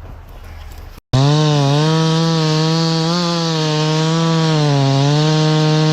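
A low, quiet rumble for about a second, then a sudden cut to a two-stroke chainsaw running at high revs. Its engine pitch sags and recovers a few times as the chain loads up in the cut.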